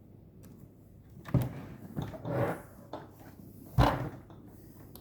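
Handling knocks and clicks: a sharp knock about a second and a half in, a few small clicks and a short scrape, then a louder knock near the end.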